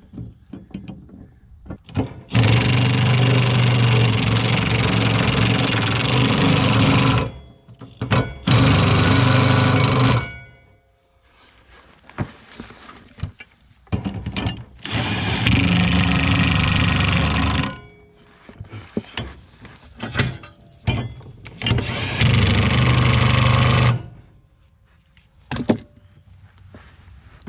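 Cordless impact wrench running in four bursts of a few seconds each, tightening the reverse-thread blade bolts on a finish mower deck.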